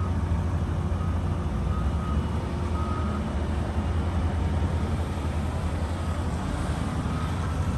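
A vehicle running with a steady low rumble, with a few faint short high tones over it.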